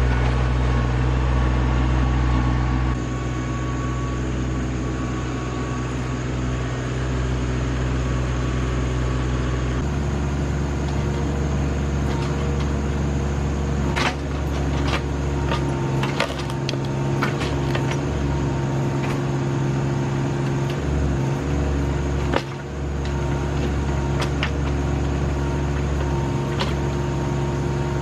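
RK25 subcompact tractor's diesel engine running steadily while working the backhoe, its note changing about 3 seconds and again about 10 seconds in. From the middle on, scattered sharp knocks and cracks sound over the engine.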